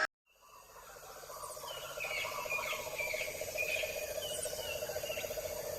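Birds chirping in short, rising and falling calls over a steady, fast-pulsing trill, fading in after a moment of silence.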